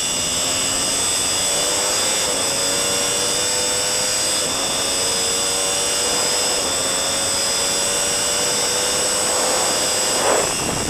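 Sport motorcycle engine at full throttle, pulling up through the gears. Its high note climbs steadily, with a short break at each upshift roughly every two seconds. Heavy wind rush over the onboard camera runs underneath.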